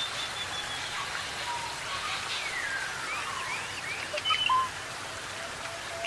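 Several birds calling over a steady hiss of rainforest ambience. About two seconds in there is a long whistle falling in pitch, followed by a quick run of short rising-and-falling notes and a few brief, higher held notes.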